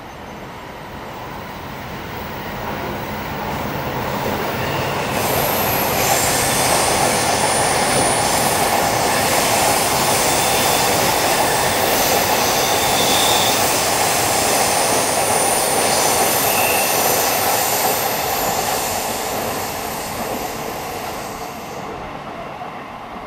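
A train passing close by. Its wheel and track noise builds over about five seconds, holds steady with thin, high squealing tones from the wheels, then fades away near the end.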